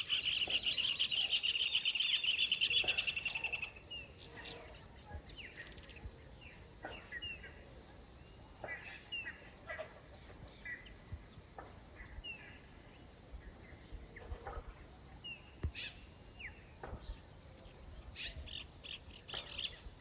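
Rural outdoor ambience: a loud, rapid pulsing trill for the first few seconds, then scattered bird chirps and short calls over a faint background.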